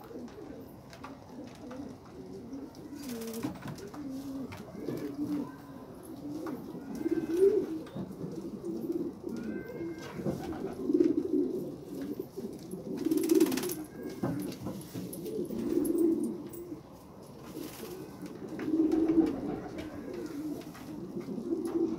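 Homing pigeons cooing: low, repeated coos that swell and fade every few seconds.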